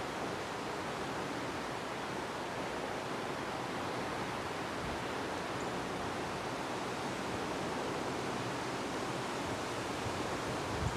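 Wind blowing steadily outdoors, an even rushing noise.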